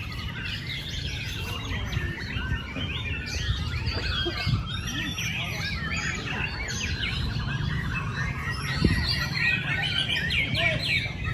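Many caged songbirds singing at once in a competition, a dense, overlapping chorus of chirps and whistles over a low background rumble, with one short knock near nine seconds in.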